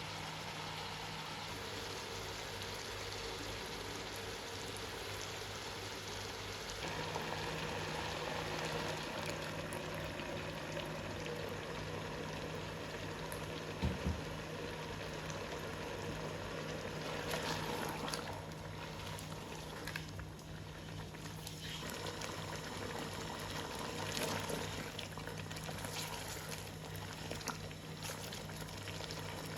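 Masala chicken cooking in a pan, a steady sizzle and bubbling over a low steady hum, with a single knock about halfway through.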